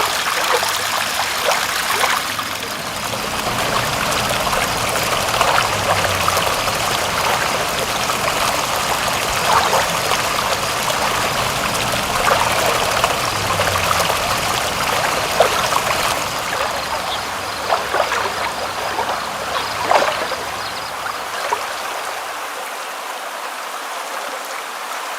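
Steady running, trickling water with scattered sharp drips and splashes, easing slightly near the end.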